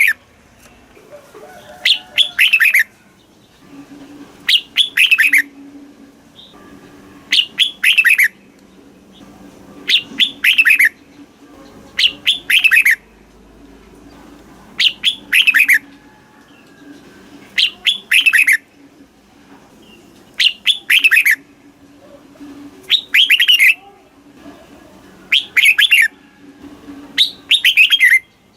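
Red-whiskered bulbul singing short whistled phrases of quick falling notes, one phrase about every two and a half seconds, with a faint steady hum underneath.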